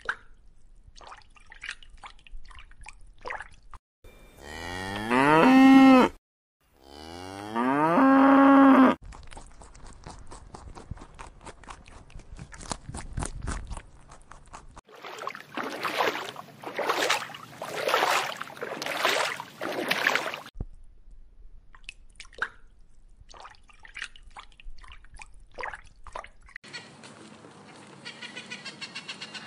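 A cow mooing twice: two long calls, each rising in pitch and then holding, the loudest sounds here. After them come quieter clicking and a run of short, scratchy calls.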